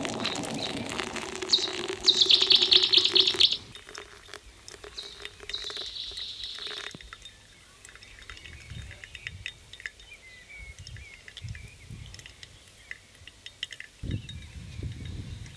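Birds chirping, with a loud, rapid high trill about two seconds in, further chirping a few seconds later, and fainter scattered chirps afterwards. A few low thumps come near the end.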